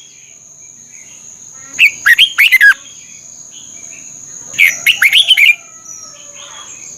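Red-whiskered bulbul singing: two short, loud phrases of quick, bubbling whistled notes, about three seconds apart. A steady high-pitched whine runs beneath.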